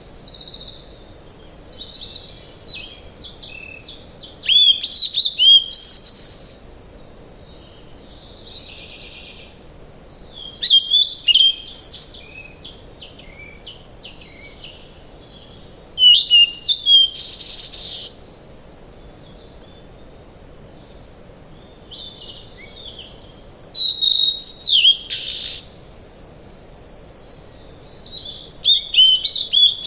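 Birdsong: loud phrases of chirps and trills lasting a second or two, repeating about every six seconds, over a soft steady hiss.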